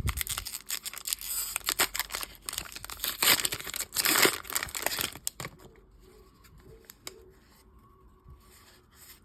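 A trading card pack's wrapper being torn open and crinkled, with the loudest rips about three and four seconds in. It turns much quieter about five and a half seconds in.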